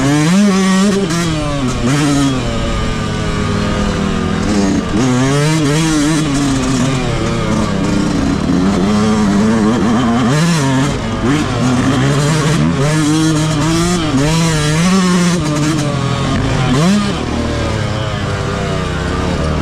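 Stock Yamaha YZ125 single-cylinder two-stroke engine being ridden hard, its pitch climbing and falling again and again with the throttle, with a few sharp drops as the revs come off.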